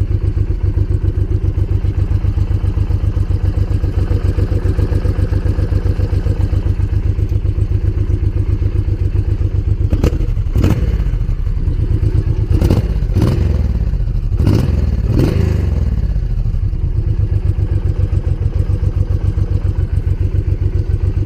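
Honda VTX 1800's big V-twin idling through its stock exhaust with an even, loping beat. A few short throttle blips come about halfway through, each rising and falling back to idle. The engine runs smoothly on freshly changed spark plugs.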